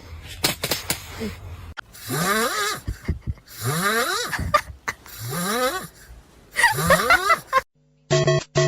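An animal snoring: four wheezy, hissing snores, each about a second long and about one and a half seconds apart.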